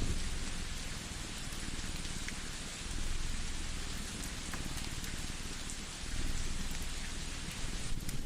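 Layered ambience: a steady rain-like hiss with a few sharp pops of a crackling wood fire, over a low rumbling drone, in keeping with a cat's purring, that swells a little about three and six seconds in.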